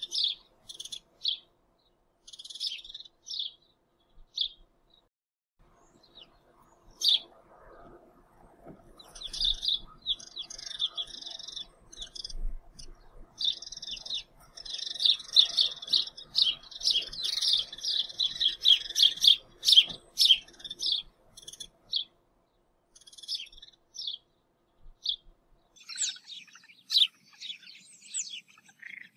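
A small bird chirping and twittering in quick runs of short high notes. It is sparse at first, turns into a long dense run in the middle, and picks up again near the end.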